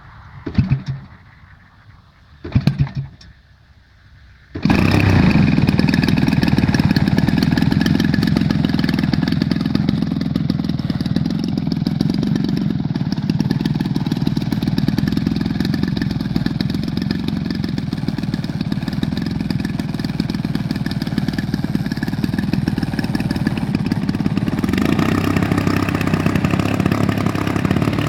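Small engine of a large radio-controlled model plane starting: three short bursts as it fires briefly, then it catches about four and a half seconds in and runs steadily, picking up a little near the end.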